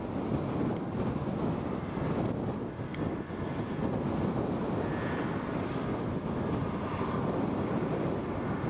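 Jet airliner flying low on approach to land: a steady engine rumble with a faint high whine, mixed with gusty typhoon wind hitting the microphone.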